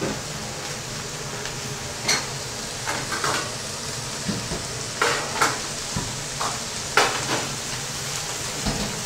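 Shredded cabbage sizzling in oil in an iron wok, a steady frying hiss. A few short clicks and knocks are spread through it, the loudest about two, five and seven seconds in.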